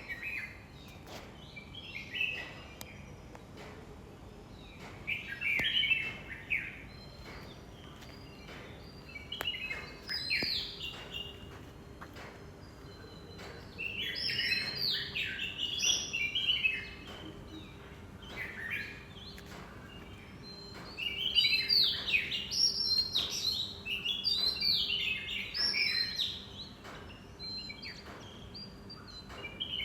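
Small songbirds chirping and twittering in bursts of quick, falling high notes, with short lulls between the bursts.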